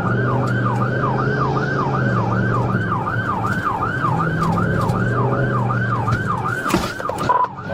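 Police siren on its fast yelp, a rapid up-and-down wail about three times a second, over the pursuing cruiser's engine and road noise. The yelp breaks off briefly near the end.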